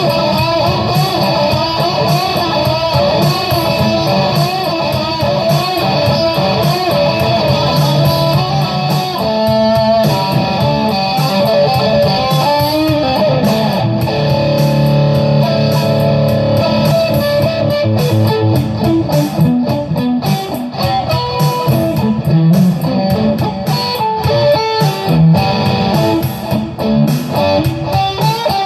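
Electric guitar playing improvised lead lines, scale runs, with wavering, bent notes for the first nine seconds or so and longer held notes over lower sustained notes after that.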